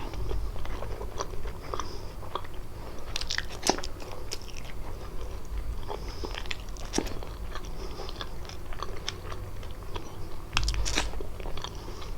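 Close-miked biting and chewing of kalaj, a layered Arabic pastry, with many short, sharp crunches and crackles and a few heavier low thuds from the mouth.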